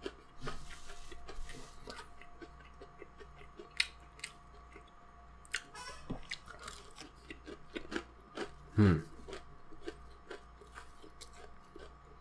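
Close chewing and crunching of a KFC biscuit with a hard outer crust, in many small crisp clicks. Near the end comes a short falling throat sound, the loudest moment.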